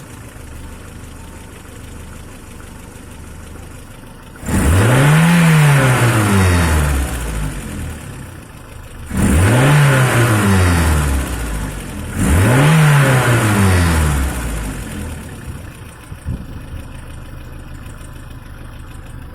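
Outboard motor engine idling, revved three times by blips of the throttle. Each rev rises and falls back to idle, while the engine is checked with a vacuum gauge.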